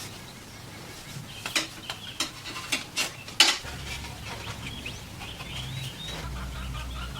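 Several sharp clinks or knocks in quick succession, the loudest about three and a half seconds in, then a low steady hum.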